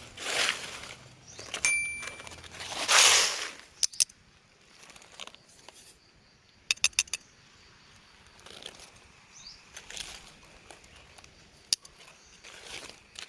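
Rustling swishes, loud early on and then fainter, with scattered sharp clicks, including a quick run of about four clicks some seven seconds in.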